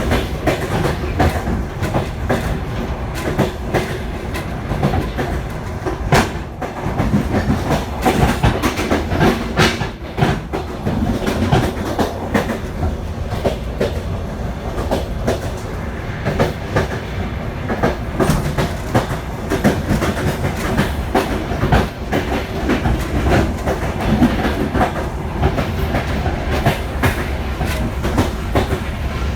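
Passenger train running on the rails: a steady low rumble with the wheels clacking irregularly over rail joints and points.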